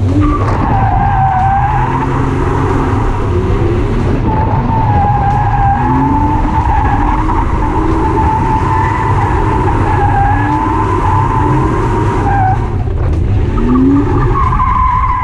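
A drift car sliding, its tyres squealing in long wavering screeches over the running engine. The squeal drops out briefly about two seconds in and again near the end.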